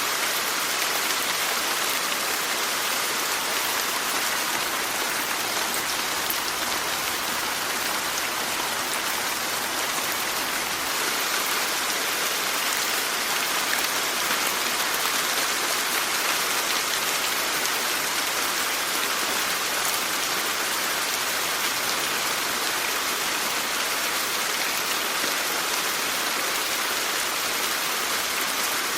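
Steady rain falling, a dense even hiss of drops with fine scattered patter.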